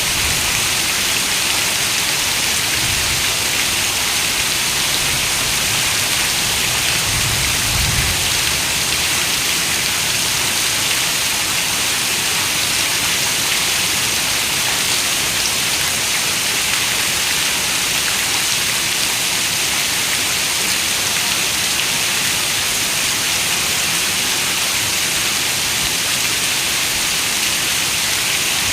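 Heavy rain falling steadily on a window, an even dense patter with no pauses, and a faint low rumble about 7 to 8 seconds in.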